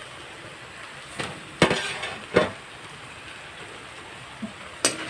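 Beef and bottle gourd leaves sizzling steadily in an open metal wok, with four sharp metal clanks, two of them close together a little under two seconds in.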